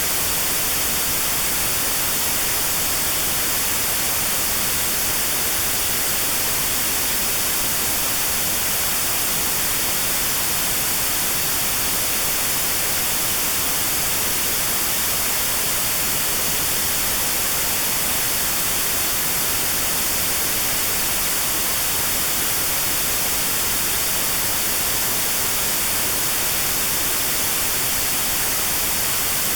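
Steady hissing white noise with a narrow band around 4 kHz cut out (notch-filtered), made as tinnitus sound therapy for a 4 kHz tinnitus tone.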